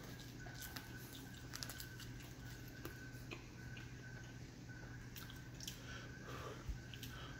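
Faint chewing and biting into breaded chicken tenders: scattered short crunches and mouth sounds, over a low steady hum.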